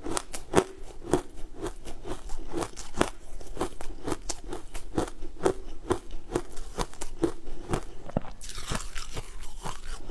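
Close-miked crunchy chewing of a frozen, crumbly green food, in a regular rhythm of about two crunches a second. A brief hissing scrape comes near the end.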